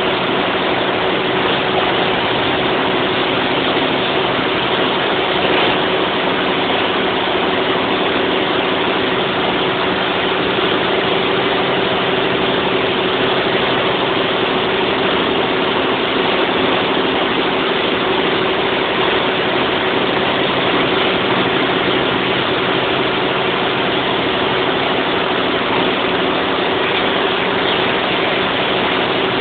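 Large 1000 kW diesel generator set running steadily at constant speed, a dense mechanical din with a steady hum.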